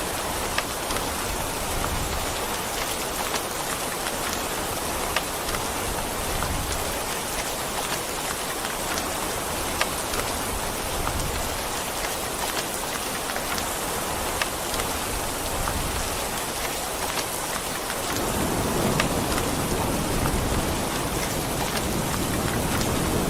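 Steady heavy rain hissing, with scattered sharp drops. Near the end a low rumble of thunder builds under it.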